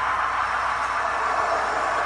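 Simulated diesel locomotive engine sound from a QSI Titan-U DCC sound decoder, played through the small speakers of a brass model of a Union Pacific DD40X, running steadily with little bass.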